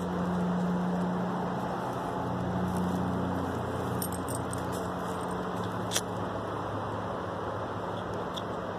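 A vehicle engine running steadily with a low hum, and a single sharp click about six seconds in.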